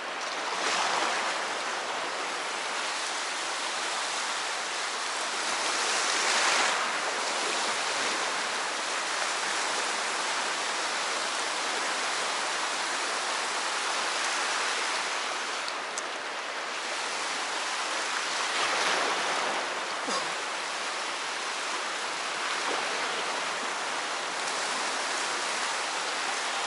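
Sea surf washing onto the shore: a steady rush of breaking waves that swells louder now and then.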